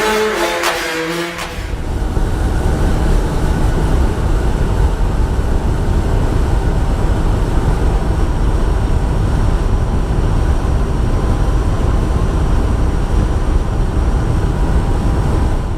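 A fishing boat running at speed: a steady low motor rumble heavily mixed with wind buffeting the microphone. It starts about a second and a half in, as music fades out.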